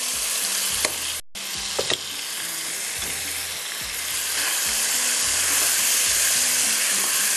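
Chicken pieces sizzling as they fry in butter and garlic in a nonstick wok, stirred with a slotted spatula that makes a few light clicks and scrapes against the pan. The sound drops out briefly just over a second in.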